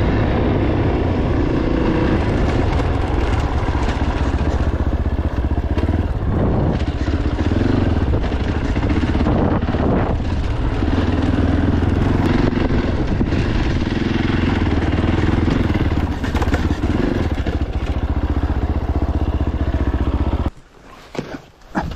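Fantic Caballero 500 Rally's single-cylinder engine running steadily while the motorcycle is ridden. The sound cuts off suddenly near the end, followed by a couple of sharp knocks.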